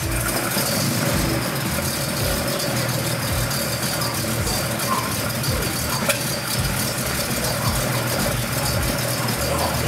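Nissan Skyline C110 'Kenmeri' engine idling steadily, with an uneven low pulse and no revving.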